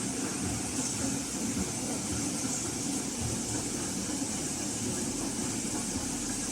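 Gorenje WA72145RD washing machine running, a steady mechanical hum with hiss.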